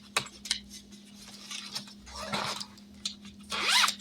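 Light clicks and rustles of paper and plastic as cash envelopes and money pages are put back into a budgeting binder, over a steady faint hum. A short rising vocal sound comes near the end.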